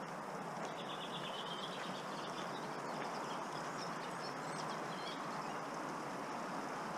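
Steady rushing of water, with a small bird chirping faintly about a second in and again a few seconds later.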